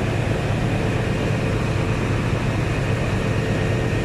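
Steady low mechanical drone with a faint, constant whine from the green KA Bandara airport trainset standing close by with its machinery running.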